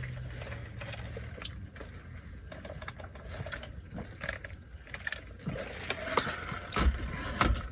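Close-up chewing of McDonald's chicken nuggets: irregular soft clicks and smacks of eating, over a low steady rumble.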